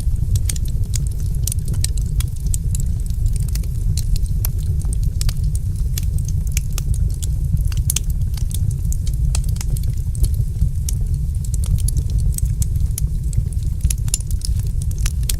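Fire in a fireplace crackling: many quick, irregular sharp pops over a steady low rumble.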